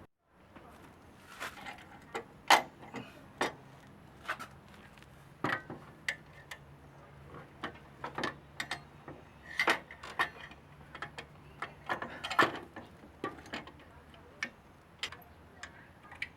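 Irregular sharp clicks, clinks and knocks of hand tools working on metal motorcycle exhaust parts, a few of them louder, over a faint steady low hum.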